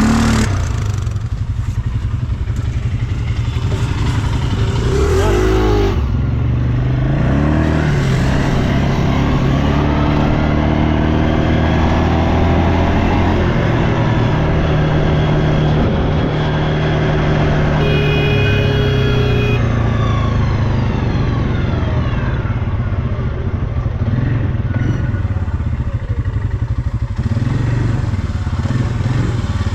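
ATV engine running under load, revving up and down repeatedly, its pitch rising and falling throughout.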